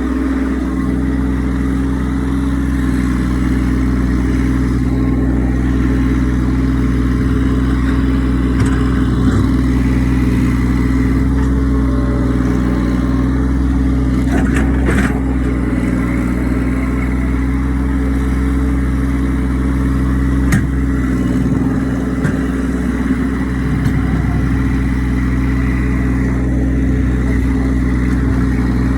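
Massey Ferguson tractor engine running steadily at a constant speed, with a couple of brief knocks partway through.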